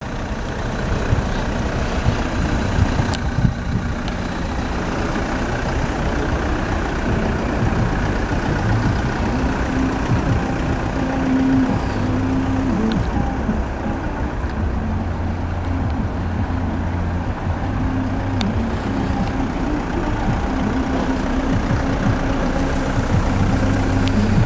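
Toyota Hilux 2.5 litre four-cylinder turbo diesel engine running steadily at idle.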